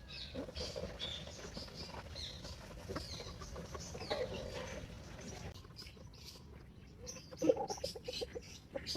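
Chickens calling: high chick peeping through the first half, then a quick run of louder hen clucks near the end.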